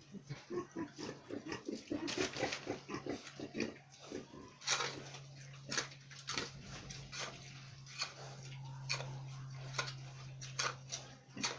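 Pigs grunting in quick short bursts in the first few seconds, with scattered sharp clicks and knocks. A steady low hum sets in about four and a half seconds in.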